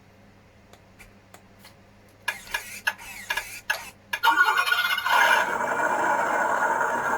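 WPL C44KM RC truck being handled and started: a run of clicks and knocks, then from about four seconds in a steady mechanical running sound that rises in pitch as it comes on.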